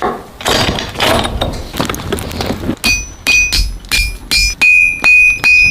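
Blacksmith's hammer blows in steel forging. The first strikes are duller and noisier. About three seconds in they turn into sharp, regular blows, about three a second, each leaving a high metallic ring from the anvil.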